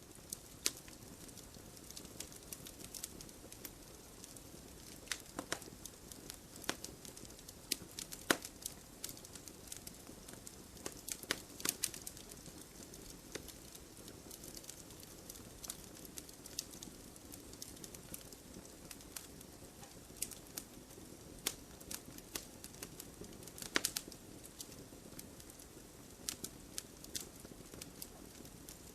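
Campfire burning: irregular sharp pops and crackles of burning wood over a steady soft hiss, with a few louder snaps scattered through.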